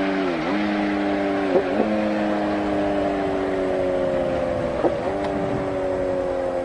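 Motorcycle engine running hard at high revs in a steady note. Its pitch dips sharply and recovers just after the start, twice more about a second and a half in, and again about five seconds in, then slowly falls.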